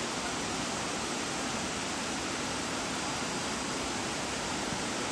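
Steady rush of water from a waterfall, an even noise with no breaks or changes.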